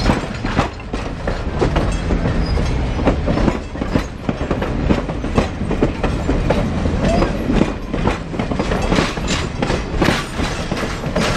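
Union Pacific 942 train rolling along the track, its wheels clicking and clacking over the rails irregularly above a steady low rumble.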